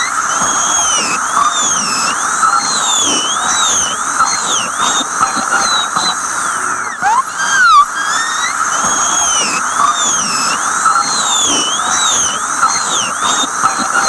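Dentist's drill whining, its high pitch rising and falling in quick waves over a steady hiss; the same stretch repeats about seven seconds in.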